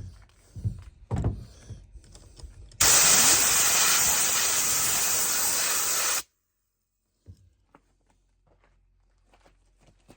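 Compressed-air blow gun blasting into a chainsaw bar and chain for about three and a half seconds, a loud steady hiss that starts and cuts off abruptly, blowing out sawdust and oil buildup and spinning the chain. Before it come a few knocks of the saw being handled.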